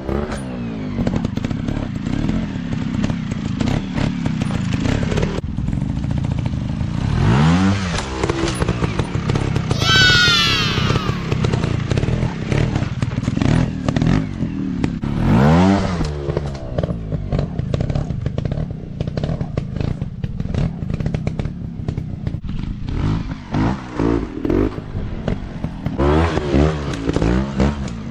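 Off-road dirt bike engines running and revving up and falling back again and again, with frequent knocks and clatter. About ten seconds in, a high whine falls in pitch.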